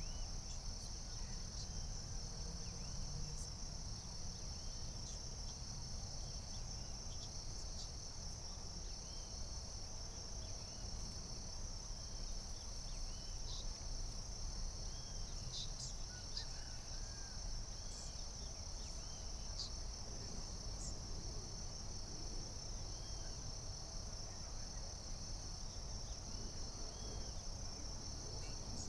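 Forest insect chorus: a continuous, even high-pitched trill of crickets that never lets up, with faint scattered bird chirps and a low rumble underneath.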